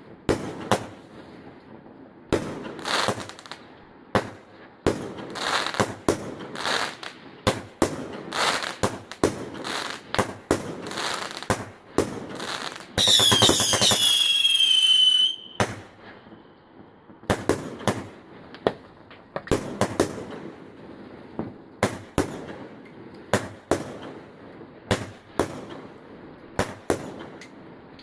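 Fireworks going off: a string of sharp bangs and crackles at irregular intervals. About halfway through, a whistling firework screams for two or three seconds, its pitch falling slightly, and this is the loudest sound.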